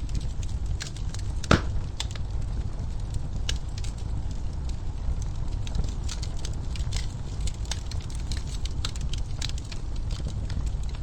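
Log fire crackling in a fireplace: irregular small pops and snaps over a steady low rumble of the flames, with one louder pop about a second and a half in.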